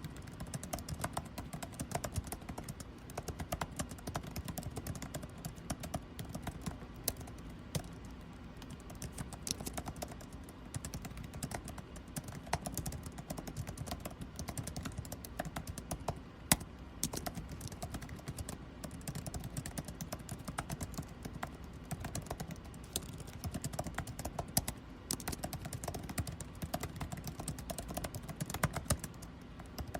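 Computer keyboard typing: fast, irregular key clicks, with a steady air-conditioning hum beneath.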